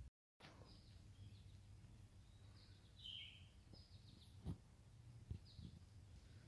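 Faint birdsong: short high chirps every second or so, the clearest about three seconds in, over a low steady rumble. Two soft knocks come about four and a half and five seconds in.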